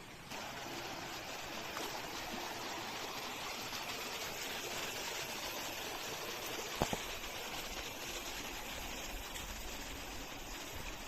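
Stream of water running steadily. A short, sharp double click about seven seconds in.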